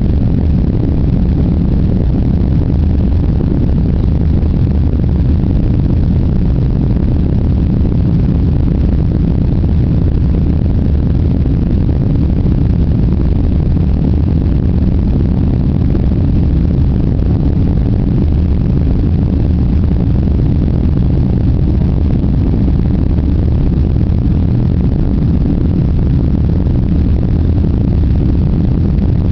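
Boeing 747 jet engines' steady low rumble, heard from inside the passenger cabin, with no change in level.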